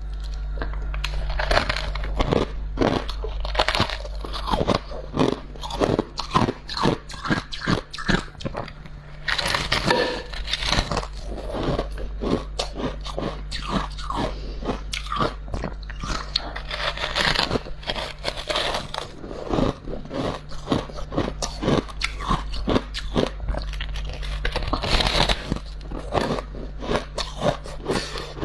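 Freezer frost being bitten and chewed close to the microphone: dense, irregular crunching, several crunches a second with louder clusters. A steady low hum runs underneath.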